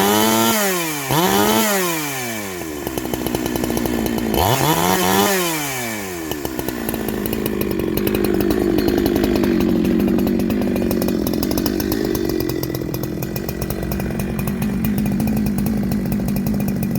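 Small two-stroke chainsaw fitted with a shotgun-style pipe muffler, blipped up and down in pitch three times in the first six seconds, then settling into a steady fast idle while it warms up. The modded muffler gives it a note the owner calls way fat, and it is running rich on its factory tuning.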